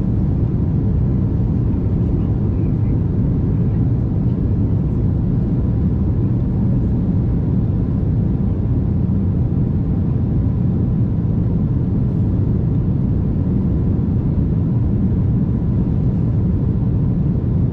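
Steady cabin noise of an Embraer regional jet climbing after take-off: an even, low rumble of engines and airflow with a faint steady hum above it.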